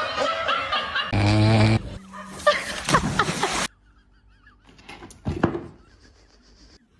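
A person laughing, which cuts off sharply a little after halfway through, leaving faint sounds and a brief knock.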